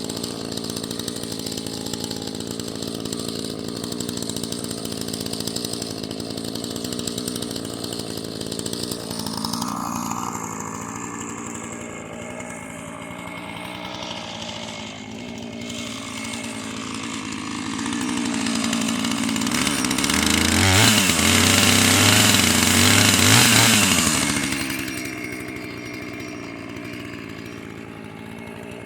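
Husqvarna two-stroke chainsaw running while cutting up wood, getting louder for several seconds past the middle before easing back down.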